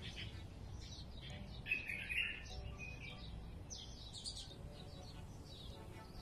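Small birds chirping and twittering in quick, short calls that sweep downward, the loudest about two seconds in, over a faint low rumble.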